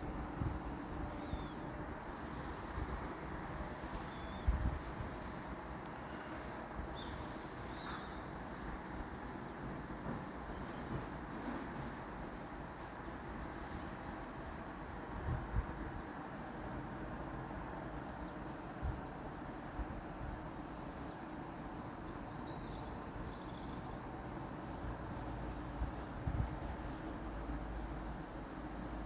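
Countryside outdoor ambience: a steady rushing noise, with a faint high chirp repeating about twice a second and a few brief higher chirps, and scattered low bumps of wind on the microphone.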